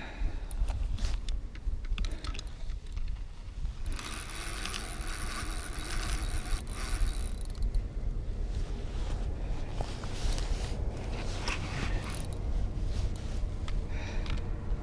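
Handling noise: scraping, rustling and clicks over a steady low rumble, with a few seconds of hiss about four seconds in.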